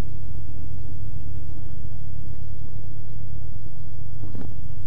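Cessna 172's piston engine running steadily, a constant low drone heard inside the cabin.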